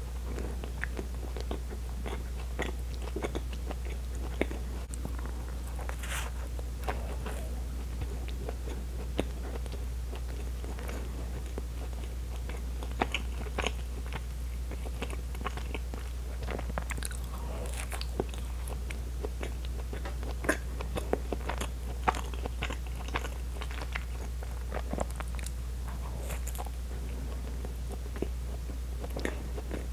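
Close-miked chewing of soft naan bread filled with keema curry, with many short mouth clicks scattered through, over a steady low hum.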